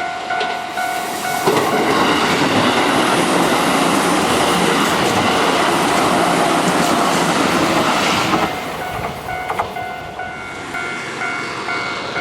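Japanese level-crossing bell ringing its repeating electronic ding. It is drowned out from about a second and a half in to about eight and a half seconds in by a Keihan 5000 series electric train running past at speed. The bell is heard again once the train has gone by.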